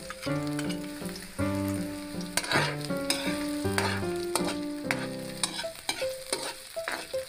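Chopped ginger, garlic and onion sizzling in hot oil in a wok, with clicks and scrapes of a spatula stirring against the pan. Background music of stepping notes plays along.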